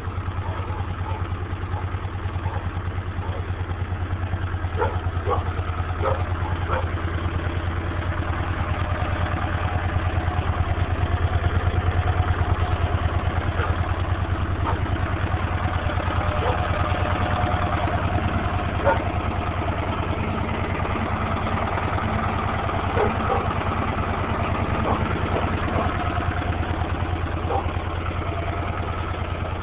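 1980 Honda CX500 Deluxe's liquid-cooled V-twin engine idling steadily, getting a little louder for a few seconds around the middle.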